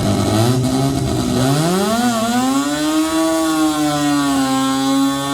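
Mazda RX-7's rotary engine revving hard during a burnout: the pitch climbs steeply over about two seconds and is then held high, dipping briefly about four seconds in before settling again.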